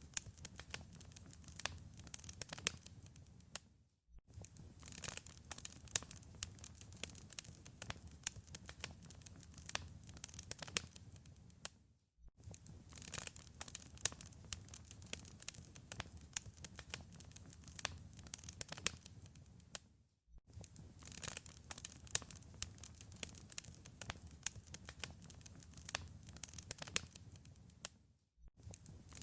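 Wood fire crackling, with many sharp pops and snaps over a low rumble. The sound drops out briefly about every eight seconds, as where a short recording is looped.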